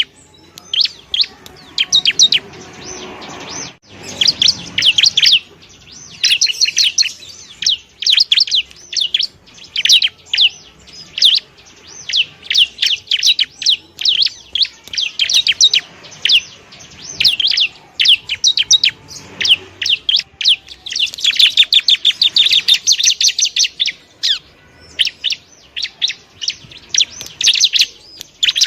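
Bar-winged prinia (ciblek) singing in rapid bursts of sharp, high chattering notes, phrase after phrase with short pauses between them. This is the fast, continuous 'ngebren' style of song used as a tutor recording for caged birds.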